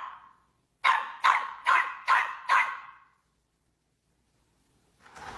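A dog barking five times in quick succession, about two barks a second.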